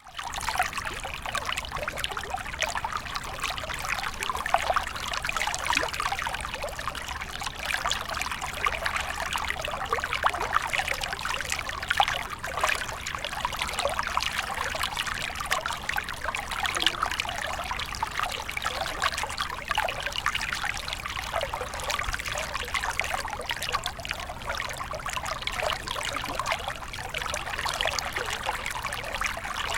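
Small stream of water flowing and trickling steadily, a continuous bubbling babble full of small rapid splashes.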